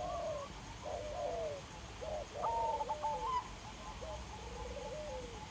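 A bird calling repeatedly: short pitched notes that rise and then slide down, some with a slight warble, about one call a second.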